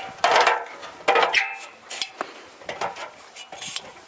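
Metal clanking and clinking: several sharp, ringing knocks a second or so apart.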